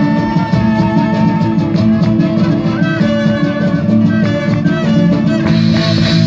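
Live band playing instrumental music, the closing bars of a song after the last sung line, with no singing.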